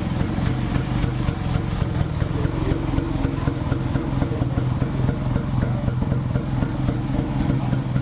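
Two-stroke single-cylinder engine of a 1938 DKW SB 250 Sport motorcycle idling steadily, with an even beat of about five exhaust pulses a second, warming up after a cold start.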